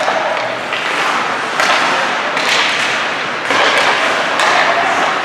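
Ice hockey play on a rink: skate blades scraping and stopping on the ice in repeated sharp scrapes, with knocks of sticks and puck.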